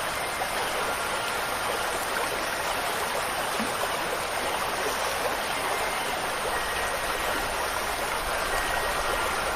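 Steady rush of flowing water, an even stream-like wash with no breaks. Faint, high wind-chime tones ring now and then, more of them near the end.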